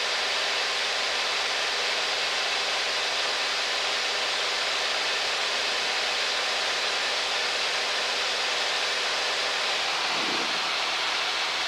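Steady cabin noise of a Cessna 172 XP in cruise flight: its six-cylinder Continental IO-360 engine and propeller running at constant power under a constant rush of airflow hiss, with faint steady engine tones beneath the hiss.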